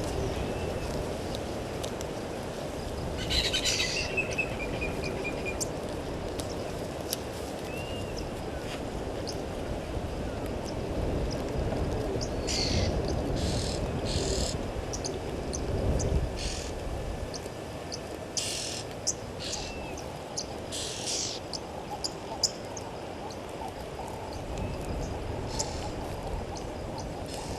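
Wild birds calling at a waterhole in the bush: short, high chirps and calls scattered through, one trilling call a few seconds in and a run of brief chirps in the second half, over a steady low rumbling background noise.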